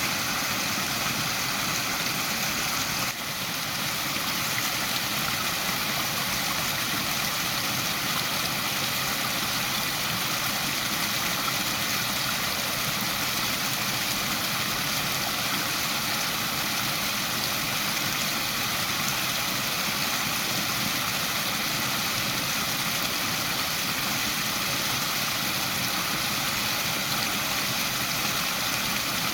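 Waterfall: a steady rush of falling water, dipping briefly about three seconds in.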